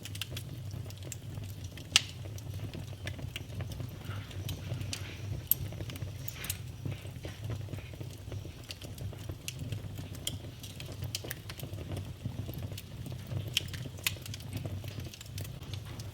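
Wood fire burning in a fireplace: a steady low rumble with irregular crackles and snaps, the sharpest pops about two seconds in and again about five and a half seconds in.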